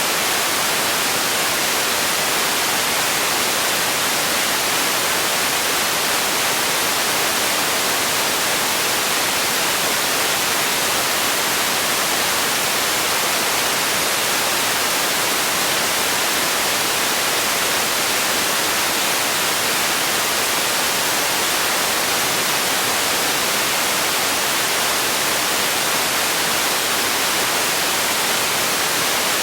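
Continuous white noise for sleep: an even, unchanging hiss, brightest in the high end.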